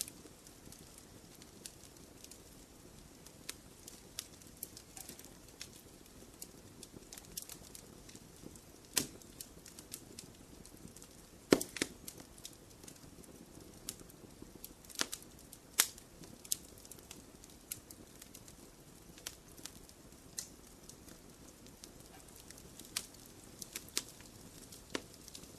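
Wood fire crackling in a fireplace: irregular sharp pops and snaps over a soft, steady low hiss of flame, with a few louder pops, the loudest near the middle.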